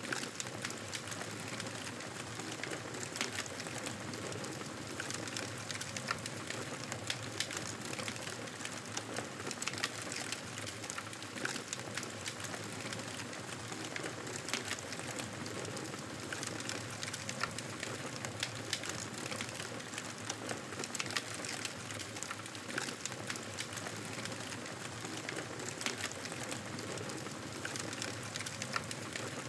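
Campfire crackling: frequent small, sharp pops and snaps at irregular intervals over a steady hiss.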